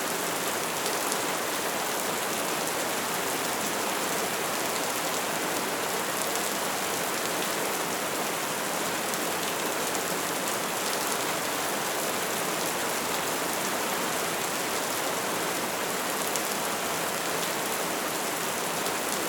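Wood fire burning with a steady hiss and many small crackles.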